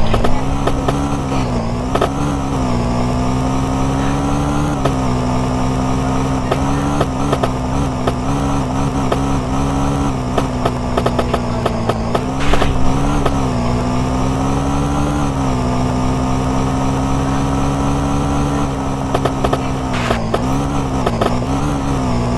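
Small 50 cc two-stroke moped engine running at a steady speed while ridden. Its pitch dips and comes back up briefly several times, with scattered knocks and rattles, the sharpest about halfway through and again near the end.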